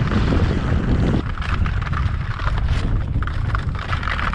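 Strong wind buffeting the microphone in gusts, over the scrape and chatter of skis sliding across hard lake ice.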